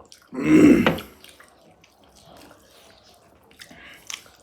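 Close-miked wet eating sounds from a mukbang of chicken egg curry. A loud, brief wet mouth sound comes about half a second in, followed by soft smacks and small clicks of chewing, with a sharper click near the end.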